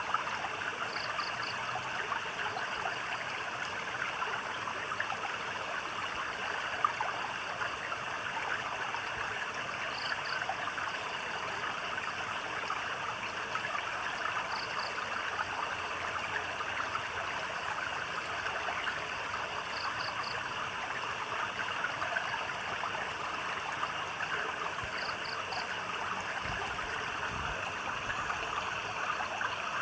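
Stream of water trickling and splashing steadily. A short, high chirp of two or three quick pulses from a small night animal repeats every few seconds.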